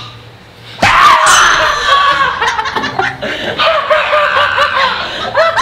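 A sudden loud shriek about a second in, breaking into rapid, repeated laughter from young men.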